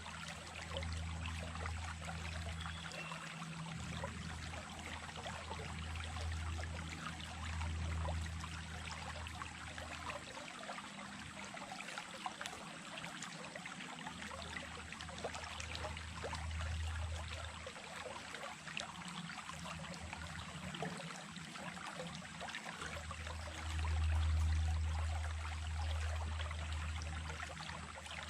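Small stream running steadily, a continuous babbling splash of water. Under it, a low rumble swells and fades several times and is loudest near the end.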